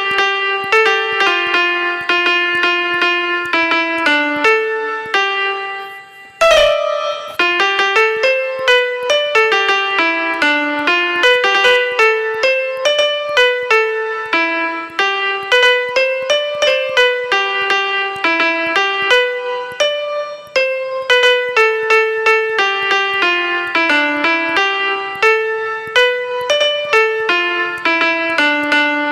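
Background music: a piano-like keyboard melody of short, evenly paced notes. It fades briefly and restarts with a click about six seconds in.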